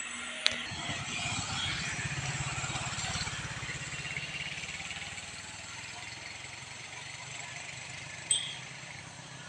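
A vehicle engine running at low revs close by, a steady rapid low pulsing that swells slightly about two seconds in and then eases off. A sharp click comes about half a second in, and a single sharp knock near the end.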